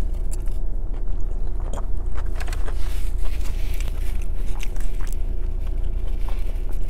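Close-miked chewing of a mouthful of burrito, with scattered wet mouth clicks, over a steady low hum.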